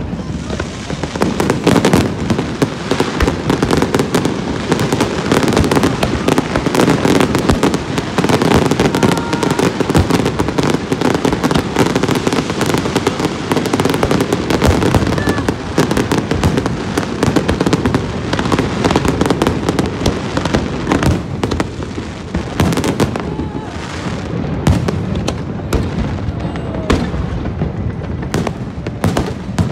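Fireworks display: a dense, continuous barrage of crackling bursts and bangs over a deep rumble of shells going off, thinning a little in the last third.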